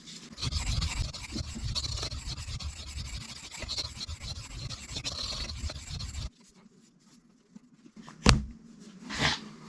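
Steel knife blade rubbing in steady strokes against a sharpening stone, stopping suddenly about six seconds in. A sharp knock follows about two seconds later, with a softer one near the end.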